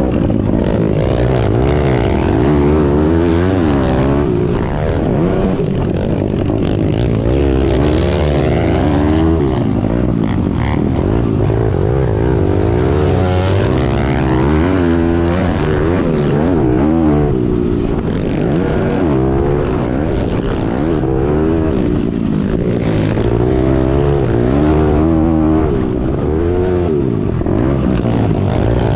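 Single-cylinder four-stroke pit bike engine running hard on a dirt track, its pitch rising and falling over and over as the rider revs through the gears and backs off for corners.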